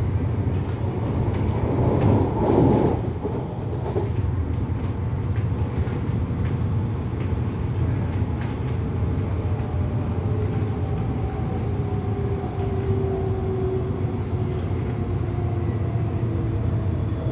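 MTR Tung Chung Line CAF train heard from inside the car while running: a steady rumble of wheels on rails, a louder surge about two seconds in, and from about ten seconds a motor whine slowly falling in pitch.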